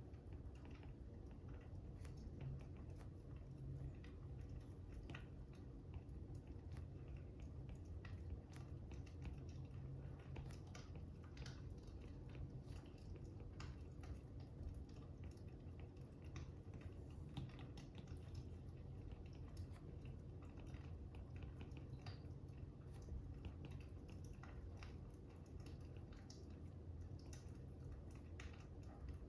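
Fire crackling: irregular small crackles and pops over a low, steady rumble.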